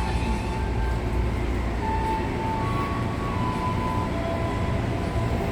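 Electric commuter train running: a steady low rumble with a thin electric whine that steps from one pitch to another several times.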